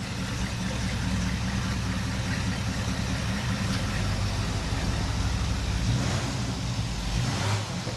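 Newly installed engine of a 1981 Chevrolet El Camino idling steadily with an even low rumble.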